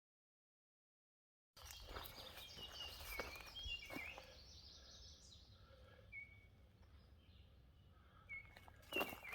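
Faint wild birds chirping in woodland, short high notes repeated every second or so, after about a second and a half of dead silence. A couple of soft knocks come near the end.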